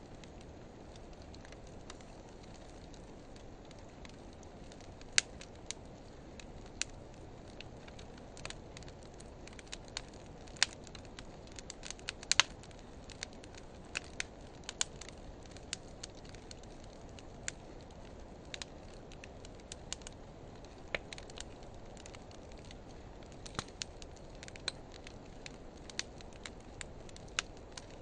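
Campfire of driftwood and dry hardwood logs burning, played back at half speed: a steady low rush of flame with scattered sharp crackles and pops, thickest between about five and sixteen seconds in.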